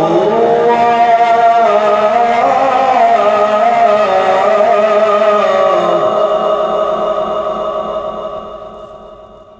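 Male Quran reciter's voice drawing out a long melodic phrase in held, winding notes, fading away over the last three seconds.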